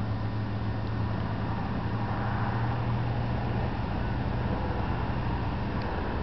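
Steady low engine drone with an even rushing hiss.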